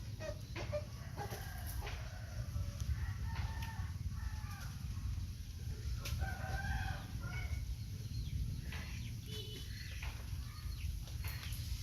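Chickens calling in short, repeated clucks and cackles, with a rooster-like drawn-out call about six seconds in, over a steady low rumble.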